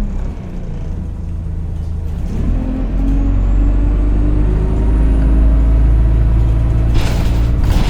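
Interior of a single-deck bus, heard from inside: the engine runs low, then picks up and climbs in pitch as the bus accelerates from about two and a half seconds in, with a faint high whine rising alongside it. Near the end comes a short hiss of air, typical of the bus's air brakes.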